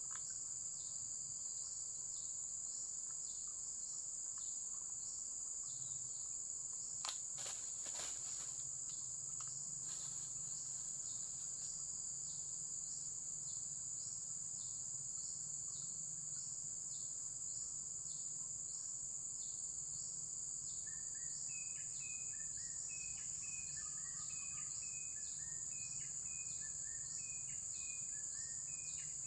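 Insects chirring in a steady, high continuous drone with regular pulses beneath it. A second, lower chirping call joins, repeating about once a second, about two-thirds of the way in, and a few faint clicks come about a quarter of the way in.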